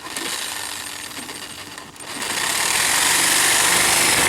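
A power tool running with a harsh, rattling sound that starts suddenly and grows louder about two seconds in.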